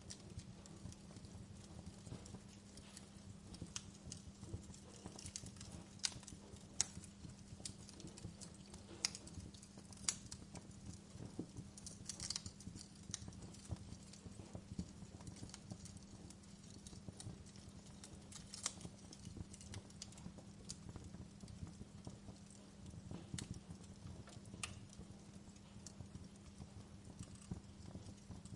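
Wood fire crackling: irregular sharp snaps and pops, a few of them louder, over a low steady rumble of burning.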